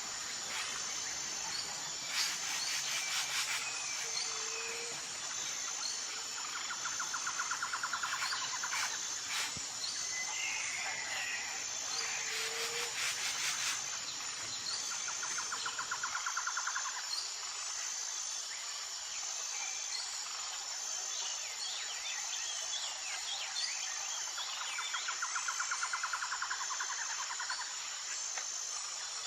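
Tropical forest ambience: a steady, high pulsing insect chorus. Over it come repeated trills of about two seconds each and scattered short bird chirps and calls, which grow busier in the second half.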